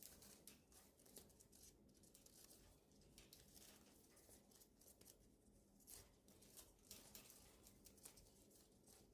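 Faint, irregular clicking, snipping and rustling of budgies nibbling and tearing eucalyptus leaves with their beaks.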